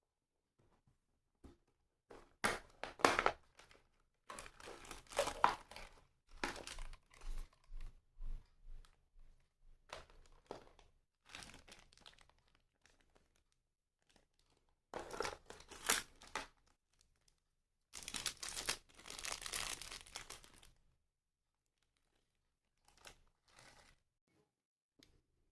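Plastic model parts being handled and fitted together: irregular spells of rustling and crinkling with sharp clicks, separated by quiet gaps.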